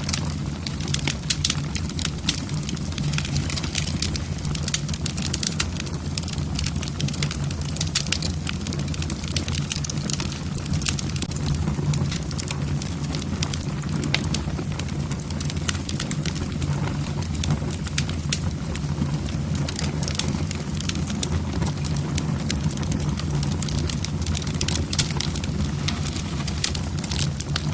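Wood fire burning in a fireplace: logs crackling with frequent sharp irregular pops over a steady low rumble of the flames.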